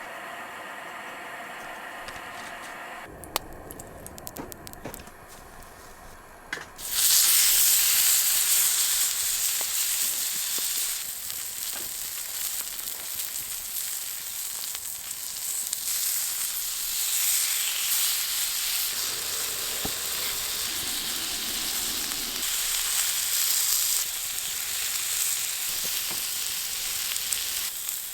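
Food sizzling in a hot pan, starting suddenly about seven seconds in and going on steadily. Before that it is quieter, with a few light clicks.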